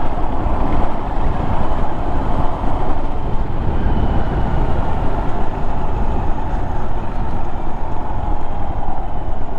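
Honda Monkey 125's single-cylinder engine running steadily under way, mixed with steady wind rush on the microphone.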